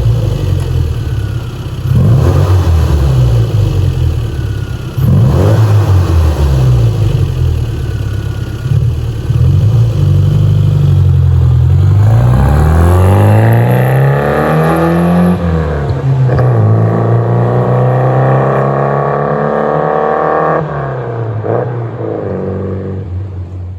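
1997 Rover Mini's four-cylinder A-series engine, revved in short blips about every two seconds, then pulling up through the revs in a long climb, easing off, and climbing again before dropping back near the end.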